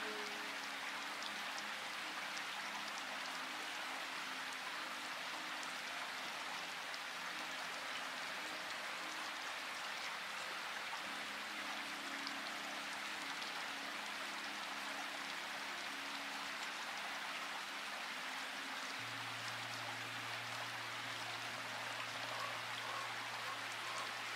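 Steady rain falling, an even hiss of water with individual drops ticking through it. A low steady hum comes in under it near the end.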